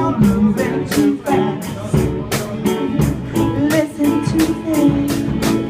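Guitar strummed in a steady rhythm, about four strums a second, playing the chords of a song.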